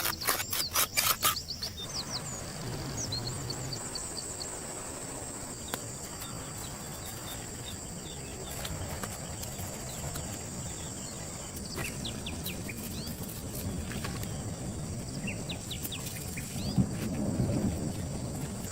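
Outdoor ambience with a steady high insect buzz, like crickets, and scattered short bird chirps. A quick run of sharp knocks sounds in the first second and a half, and a low rumble swells near the end.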